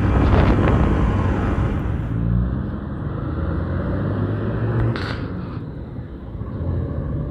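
Yamaha MT-15's single-cylinder engine running with wind rush on the microphone at road speed; about two seconds in the wind drops away and the engine runs at low revs as the bike creeps along. A short knock about five seconds in.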